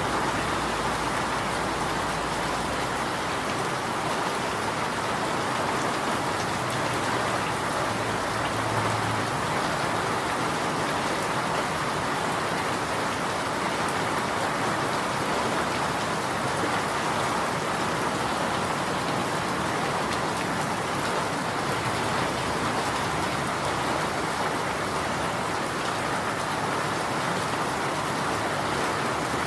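Steady rain falling, an even hiss of drops on surfaces that strongest in the middle range, with no distinct individual drips.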